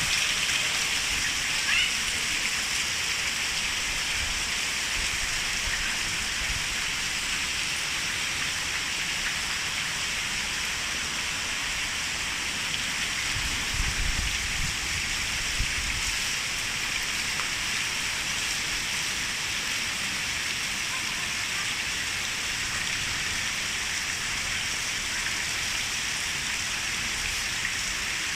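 Steady rain hiss, heavy rain falling on surfaces. A low rumble comes in briefly about halfway through.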